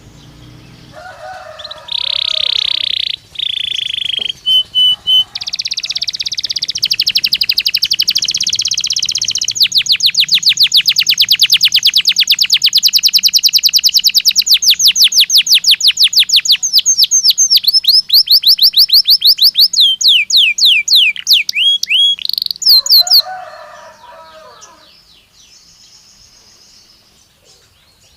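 Belgian canary singing one long song. Held high notes give way to a long run of rapid repeated trill notes, which slow and fall in pitch before the song stops a little past the two-thirds mark. Softer, lower chirps come near the start and again just after the song ends.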